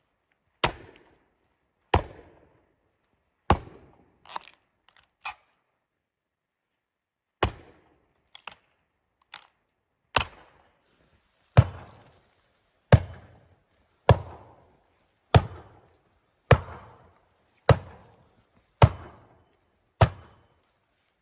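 Wood being chopped: a series of sharp, hard blows, about one every second or so, with a few lighter taps in between, growing louder and more regular in the second half.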